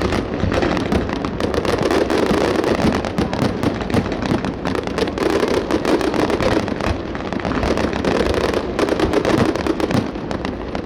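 Fireworks display: a dense, continuous barrage of rapid bangs and crackles with no pause.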